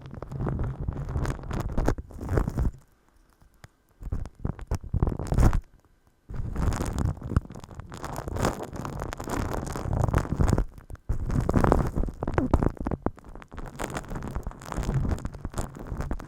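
Hands rubbing and scratching directly on an ASMR microphone, a close, muffled rumble with crackles. It stops briefly about three seconds in and again around six seconds in.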